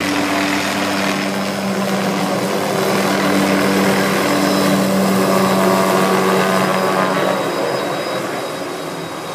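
Helicopter flying, a loud steady drone that fades a little near the end.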